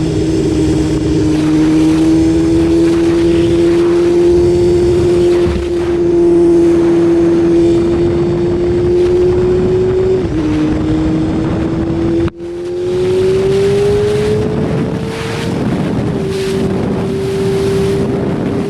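BMW S1000RR's inline-four engine running under way at fairly steady revs. About ten seconds in the pitch steps down, and after a brief dropout it climbs again as the bike accelerates.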